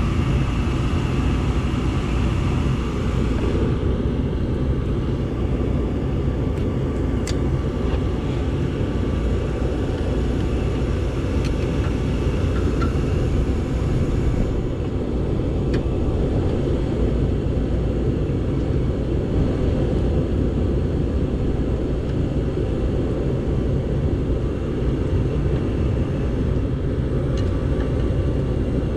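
Gas furnace running with its burners lit: a steady low rumble with a faint whine above it, and a couple of small clicks.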